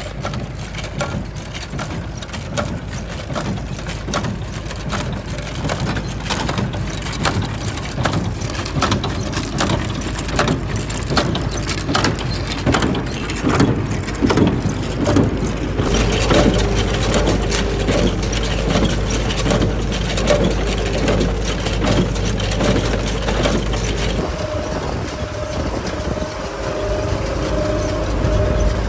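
Tractor engine running under load with a Massey Ferguson 20 square baler at work, its packing mechanism making a steady run of regular knocks. The sound changes suddenly twice, about halfway through and again near the end.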